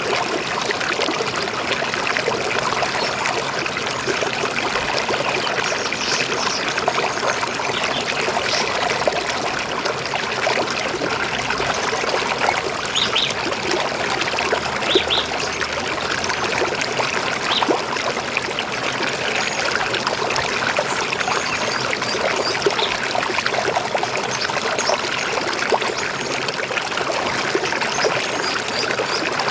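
River water flowing and trickling steadily over stones, with a few short, high bird chirps about halfway through.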